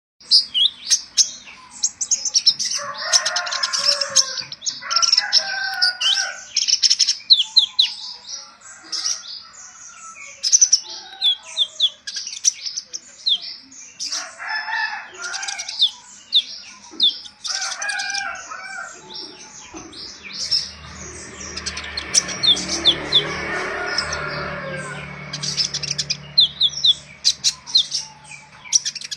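Konin songbird calling in rapid runs of high, sharp chirps and trills, with lower squeaky notes in places; a lure call meant to provoke young konin birds into singing. A steady low hum comes up in the background about twenty seconds in and fades some seven seconds later.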